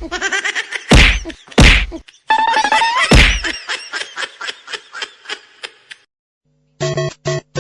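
A series of loud, sharp whacks, four in the first few seconds, each trailing off in quick fading repeats, with a rising whistle-like glide about three seconds in. Short stuttering tones near the end.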